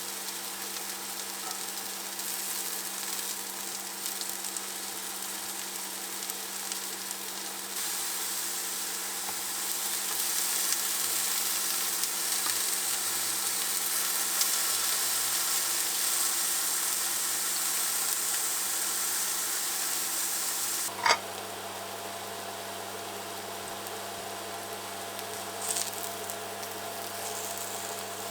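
Food frying in a hot pan: a steady sizzle with a low hum underneath, growing louder partway through. A single sharp click comes about three quarters of the way in, after which the sizzle is quieter.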